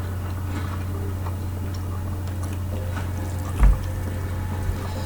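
Steady low hum with scattered faint clicks, and one dull thump about three and a half seconds in.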